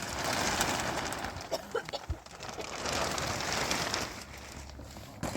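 Steady hiss of rain in a snow-and-rain storm, easing a little near the end, with a few short faint calls about a second and a half to two seconds in.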